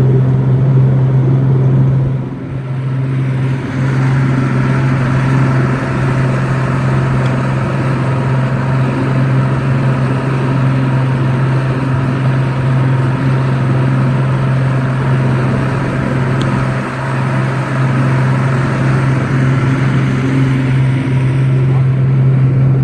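Boat's outboard motor running steadily under way, a constant low engine hum with the rush of wind and water over it. The rush swells a few seconds in and eases near the end.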